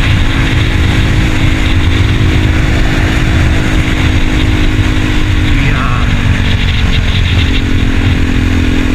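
2024 KTM Duke 390 Gen 3's single-cylinder engine running under way through an aftermarket barrel exhaust, its steady note dipping a little after midway and picking back up near the end.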